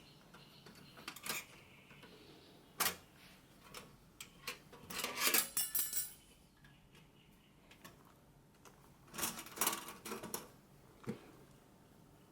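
Metal camping gear being handled: single sharp clicks and two spells of metallic clinking and rattling, about five and nine seconds in, as hooks and steel cups knock against a metal bar.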